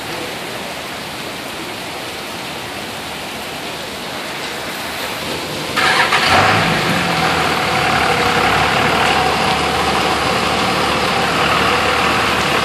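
Steady rain and storm noise, then about six seconds in a motor vehicle's engine starts up close by and keeps running, louder than the rain.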